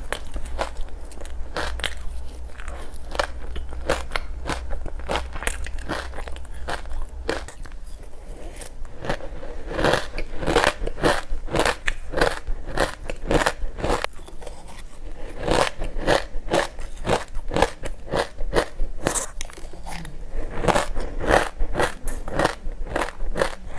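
Close-up biting and chewing of frozen creamy matcha ice chunks with buckwheat seeds: a dense, irregular run of crisp crunches and little pops, heavier from about ten seconds in.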